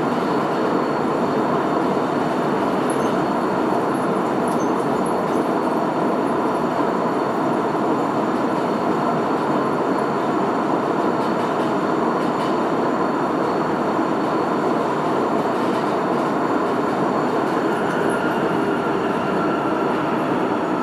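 Sapporo Municipal Subway Namboku Line 5000 series train running at speed in the tunnel, heard from inside the car: a steady, dense running noise from the rubber-tyred bogies, with a faint whine coming in near the end.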